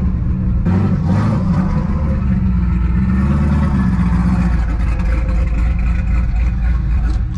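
Turbocharged Chevrolet Camaro engine running at low revs with a heavy, uneven rumble. Its pitch wavers for the first few seconds, then settles.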